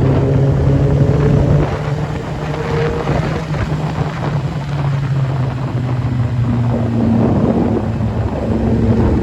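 Vehicle engine running steadily, its pitch rising a little about three seconds in and then easing, with wind noise on the microphone.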